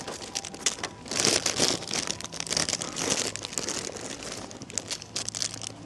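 Plastic packaging crinkling and rustling as it is handled, in irregular bursts that grow busier about a second in.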